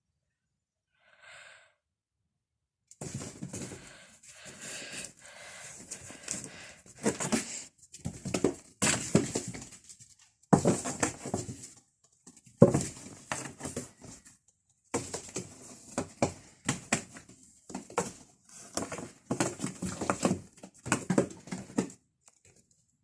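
A domestic cat purring close to the microphone in rough, breathy stretches of a second or more, with short pauses between them.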